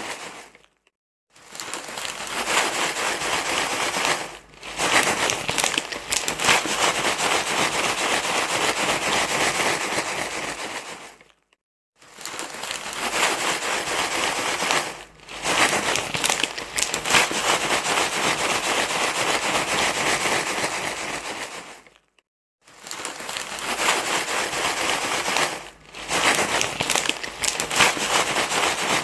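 Loud, continuous crinkling and rustling noise, a short recording looped so that it breaks off into a brief silence about every ten and a half seconds, three times.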